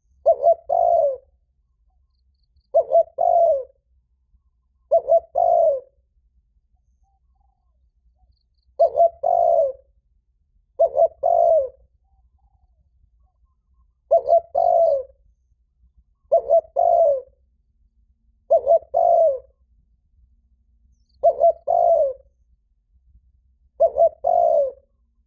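Spotted dove cooing, very loud and ringing: the 'thúc' call of a male challenging rivals to fight. Ten phrases of about three coos each, about a second long, with pauses of one to three seconds between them.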